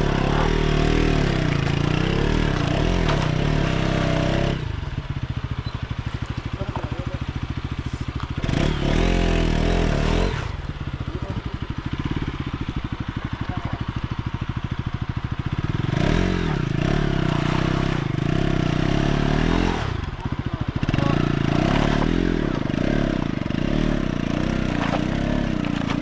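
Motorcycle engine revving hard in spells, dropping twice to a lower, steady putter, about five seconds in and again about ten seconds in, as the bike works its way up a rough off-road track.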